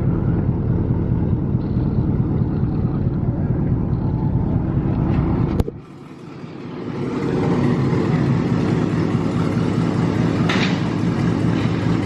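A truck's V8 engine running loud and steady, with a fast, even pulse low down. About five and a half seconds in, the sound cuts off sharply with a click, then builds back up over a couple of seconds to the same steady running.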